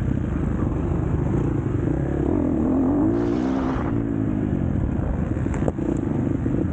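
Four-stroke KTM SX-F motocross bike engine revving up and down, its pitch rising and falling over and over, with one sharp click near the end.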